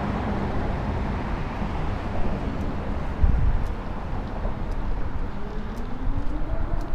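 Streetcar running, heard from inside: a steady low rumble, a single heavy thump about three seconds in, and a whine rising in pitch near the end as it picks up speed.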